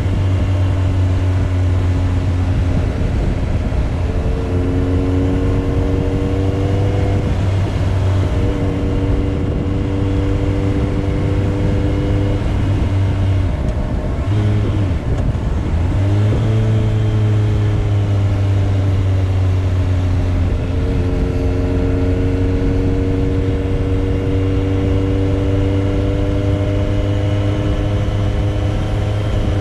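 Motorcycle engine running steadily under way, its pitch creeping slowly upward. About halfway through it drops out briefly, as at a gear change, then picks up and climbs slowly again.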